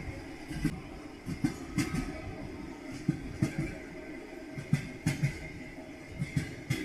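Train wheels clattering over rail joints: sharp double and triple clicks recurring about every second and a half over a steady rolling rumble.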